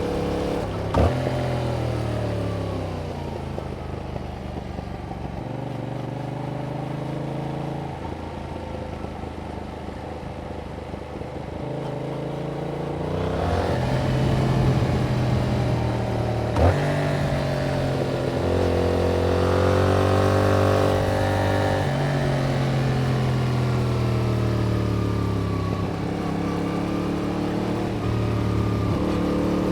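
Yamaha MT-07's 689 cc parallel-twin engine through its stock exhaust under way, its pitch sinking as it slows, rising again under throttle and stepping with gear changes. There is a sharp click about a second in and another past the middle.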